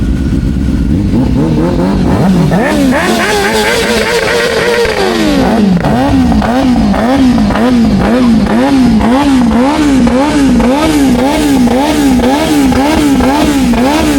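Motorcycle engine revved up, held high for a couple of seconds and let drop, then rhythmically blipped up and down about twice a second.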